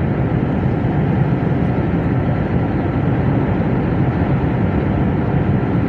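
Steady engine and road noise heard inside a truck's cab while driving at a constant speed.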